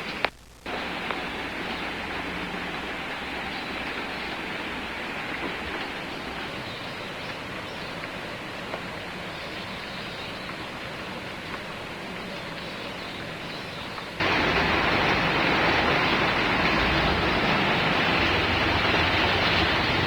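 Steady rain falling, an even hiss. It cuts out briefly just after the start, and about fourteen seconds in it jumps suddenly to a louder, heavier rain that holds steady.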